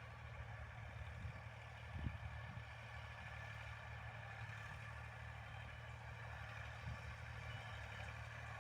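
Heavy diesel engine running steadily at low revs, with a light knock about two seconds in.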